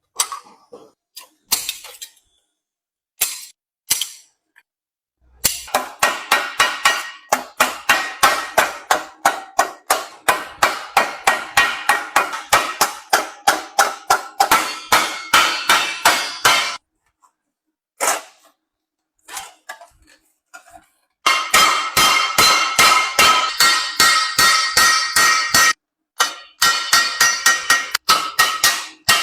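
Hammer rapidly striking galvanized sheet iron, about four ringing metallic blows a second, in two long runs with a pause between, as the sheet is shaped into a water ladle. A few single strikes come before the first run.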